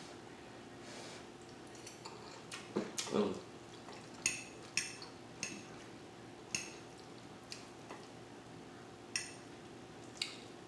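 A metal eating utensil clinking and scraping against a dinner plate while food is scooped up. About ten light, ringing clinks come at irregular intervals, with a louder clatter about three seconds in, over a faint steady hum.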